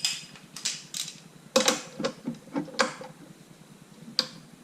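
Steel socket-set tools clinking and clicking as a socket extension bar is fetched and fitted. There are scattered clicks, a close cluster about one and a half to three seconds in, and one sharp click near the end.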